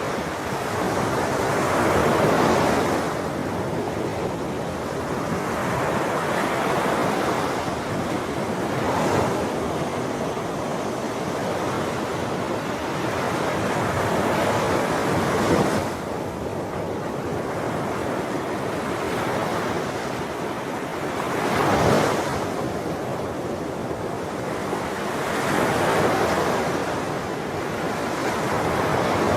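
Sea waves breaking and washing on a shore, the surf swelling and falling back every few seconds, with a wind-like hiss between the breakers.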